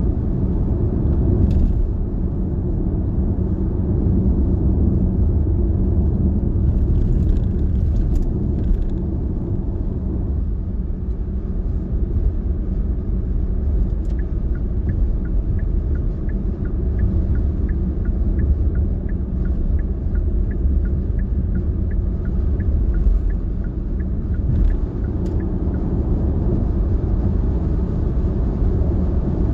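Car cabin road noise while driving: a steady low rumble of tyres and engine. In the middle stretch a regular ticking of about two clicks a second sounds for roughly ten seconds.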